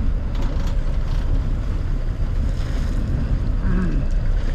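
Wind buffeting the microphone over the steady low rumble of a sportfishing boat and the sea around it.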